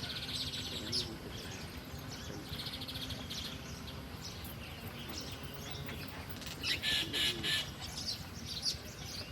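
Small birds chirping in three bouts of rapid high chirps, each about a second long, the loudest about seven seconds in.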